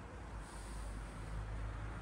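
Motor vehicle engine running with a steady low rumble under a haze of road or wind noise, a little louder from about half a second in.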